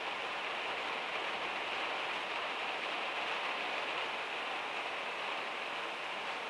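Heavy rain falling steadily on a van's metal roof, an even hiss with no single drops standing out.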